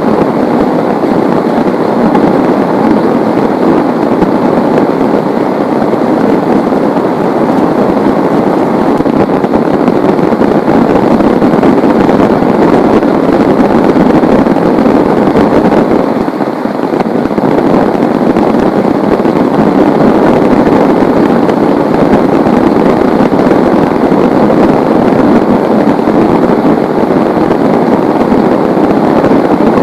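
Heavy rain falling steadily in a loud, even downpour, easing briefly about halfway through.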